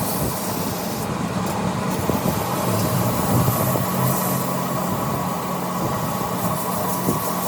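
A machine running steadily, a continuous hum with broad noise over it, in keeping with a machine tool at work on a flywheel.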